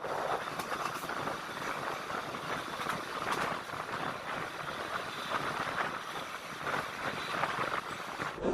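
Express train running along the line: a steady rumble with many faint clicks from the wheels and rails.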